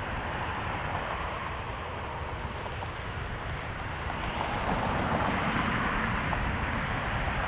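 Jet airliner engine noise, steady and growing louder about four and a half seconds in, over a constant low rumble from wind buffeting the microphone.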